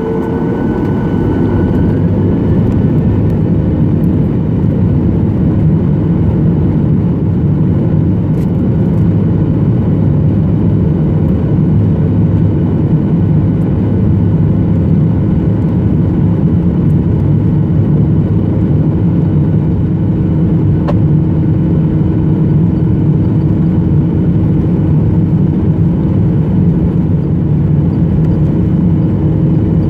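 Cabin noise inside a Boeing 737-800: the steady drone of its CFM56-7B jet engines at high power together with rushing air. It swells slightly over the first couple of seconds, then holds steady.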